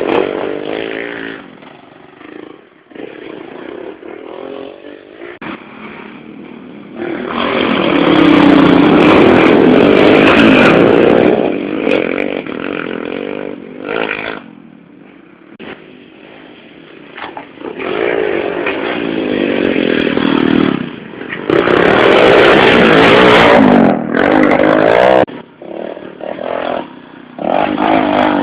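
110cc race motorcycles revving hard as they pass close by on a dirt and sand track, several times over; each pass swells loud, its pitch rising and falling, then fades to quieter engine noise from bikes further off.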